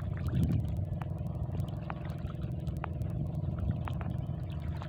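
An engine runs steadily with a low, even drone.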